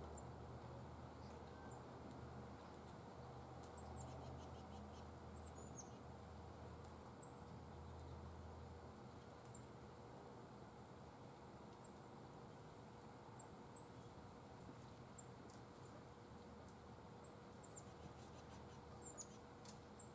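Faint black-chinned and rufous hummingbird sounds: a low wing hum through the first half, with scattered short, thin, high chip notes. A steady high-pitched insect drone runs underneath.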